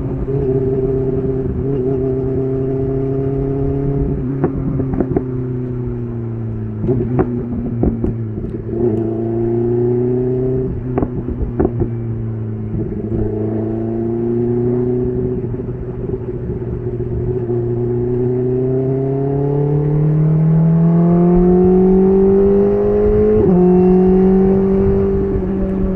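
BMW S1000RR inline-four motorcycle engine through an SC Project CR-T titanium exhaust, running at low revs with a few sharp cracks in the first half. Later the revs climb steadily and the pitch jumps abruptly higher near the end.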